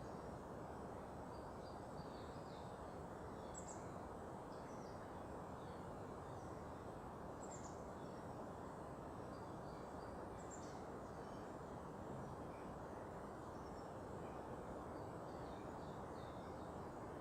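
Steady low background rumble, with small birds calling faintly over it: scattered short high chirps and, every three to four seconds, a thin high note sliding down.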